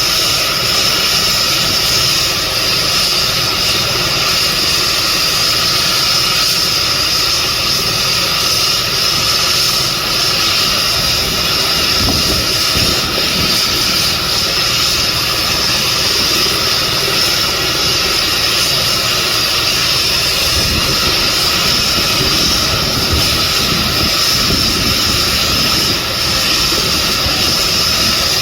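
Air ambulance helicopter running steadily close by: turbine engine and rotor noise with a steady high whine.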